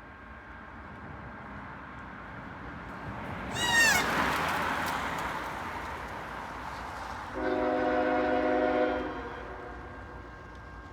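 Freight train running past with a sudden rush and a brief high squeal about four seconds in, then a locomotive air horn sounding one steady chord blast of under two seconds.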